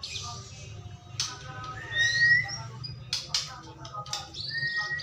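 White-rumped shama (murai batu) singing: a varied run of clear whistles and short chirps, with its loudest phrase about two seconds in, a held whistle sliding slightly upward together with a rising sweep higher up, and another held whistle near the end.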